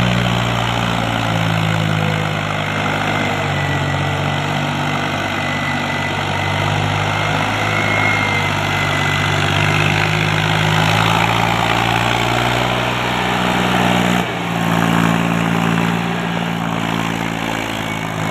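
Mahindra 265 tractor's three-cylinder diesel engine running steadily, its note shifting a little as the load changes, with a brief dip about fourteen seconds in.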